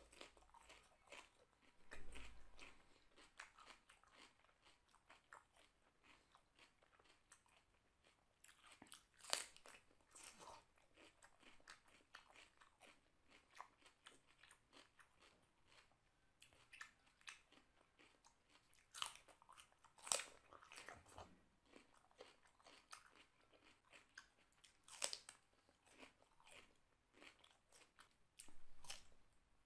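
Crisp crunching bites into a raw cucumber slice, then chewing. A few sharp, louder crunches stand out, the loudest about a third of the way in and around two-thirds in, with many small chewing clicks between.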